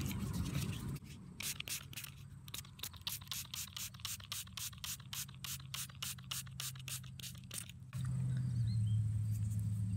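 Hand-held trigger spray bottle squirted over and over, about four quick sprays a second, rinsing the soil off a freshly dug silver dime; the spraying stops about eight seconds in.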